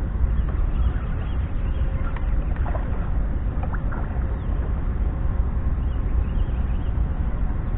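Motorized kayak under way on the water: a steady low rumble with a faint steady whine running through it, and a few brief faint splashy sounds about two to four seconds in.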